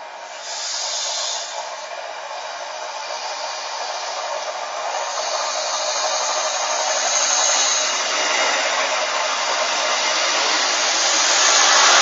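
Red Deutsche Bahn regional diesel railcar approaching along the track and running past alongside, a steady rushing noise that grows louder as it nears, with a brief hiss near the start.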